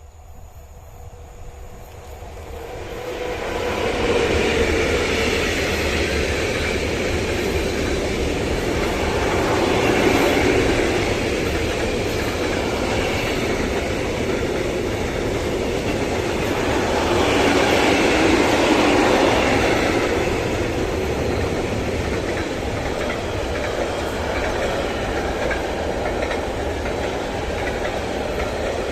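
A train passing along the line, its wheels clattering over the rails. The noise builds over the first few seconds, swells twice, then runs on steadily.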